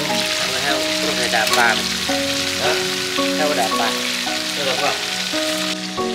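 Food frying in a pan with a steady sizzle, over background music of held notes.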